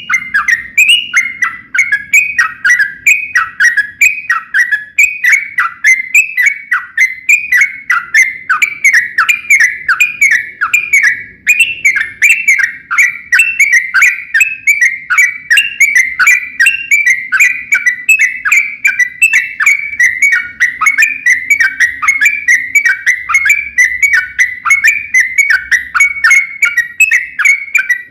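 Yellow-vented bulbul (trucukan) singing a long, unbroken run of bubbly chattering notes, about three to four a second, most of them dropping in pitch.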